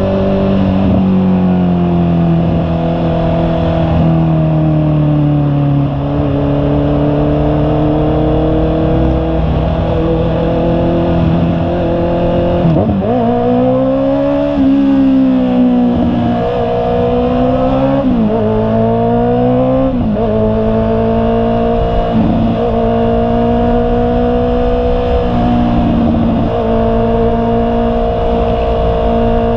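Honda CB650R's inline-four engine running under way, its pitch steady at first, then rising and dropping sharply several times as it works through gear changes between about halfway in and two-thirds in, then settling back to a steady cruise.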